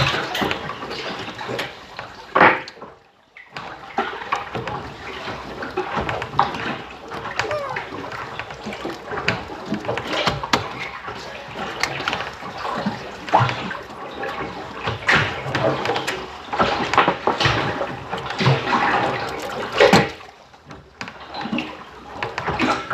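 Sea water sloshing and splashing unevenly, with a short loud splash and then a brief hush about three seconds in.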